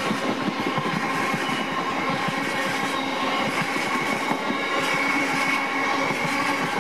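Freight train of bogie tank wagons rolling past close by at a steady speed: continuous rumble and clatter of wheels on the rails, with thin steady squealing tones over it.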